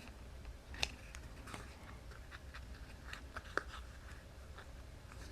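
Faint handling noises of cardstock and tape: scattered light clicks and rustles, with a sharper tick about a second in and another about three and a half seconds in.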